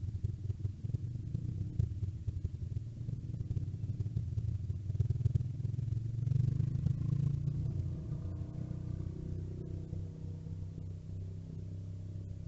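Small off-road engine of a mini bike running, its pitch rising and falling between about six and ten seconds in.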